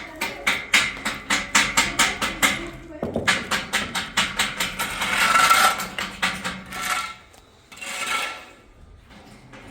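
Rapid, regular hammer blows, about four to five a second, with a louder scraping stretch near the middle; the knocks stop about two-thirds of the way through.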